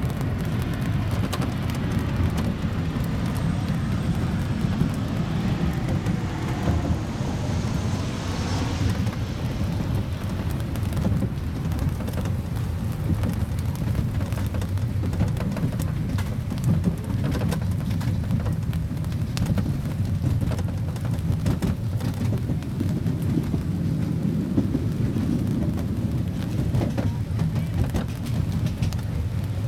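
Steady low rumble of a small park train running, with faint clicking and rattling throughout, heard from aboard.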